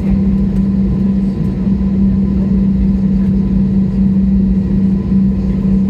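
Steady drone inside an airliner cabin on the ground before take-off: the jet engines and cabin air conditioning running, with a strong constant hum over a low rumble.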